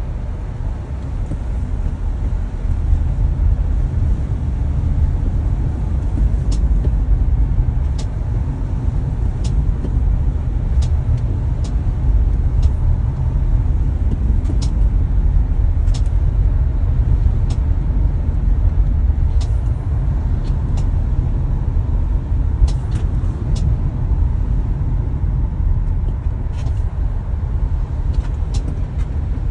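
Tesla Model Y on the move, a steady low road rumble with sharp, light clicks at uneven intervals a second or two apart. It is the recurring clicking fault that a service visit less than a week earlier did not cure.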